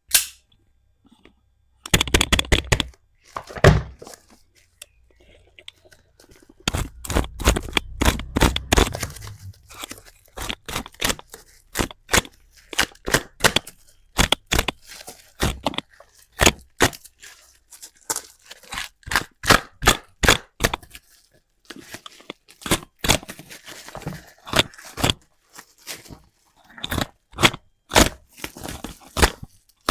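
Packaging being opened and handled: cardboard and plastic wrapping crackling and tearing, with irregular clicks, scrapes and a sharp knock at the very start.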